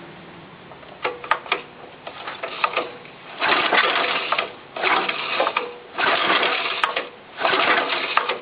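The cold engine of a John Deere 60 being cranked by its starter in repeated bursts of about a second each, a few clicks first, without firing yet.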